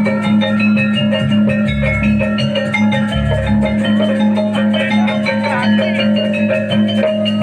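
Javanese gamelan music: bronze metallophones play a fast run of struck notes over a sustained low tone.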